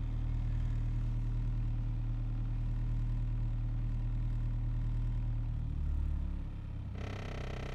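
Ford Focus SE engine idling, heard from inside the cabin during warm-up; its note shifts about six seconds in. Near the end a steady higher tone with many overtones joins it.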